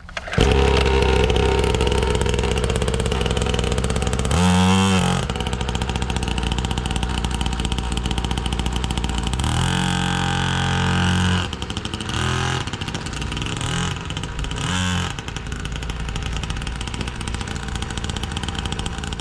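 Small dirt bike engine running steadily, revved up briefly about four and a half seconds in, again for a second or so around ten seconds, and twice more in short blips after that.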